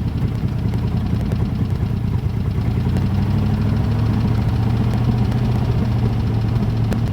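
The engine of a 1970s Chevrolet C30 square-body dump truck idling steadily. It is a worn-out motor with a slight knock, which the owner says needs replacing.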